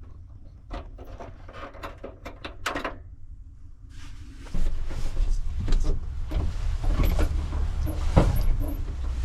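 Doors and latches of a pickup truck bed camper being worked: a run of clicks and knocks, then from about four and a half seconds in a louder rumbling noise with more knocks.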